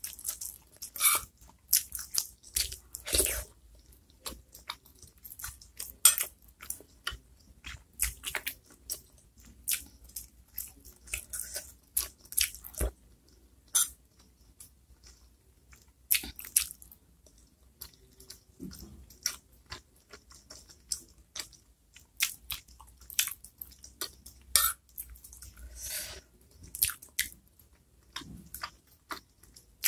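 Close-miked chewing of small chicken meatballs (bakso) in spicy chili broth: a long irregular run of short, sharp mouth sounds.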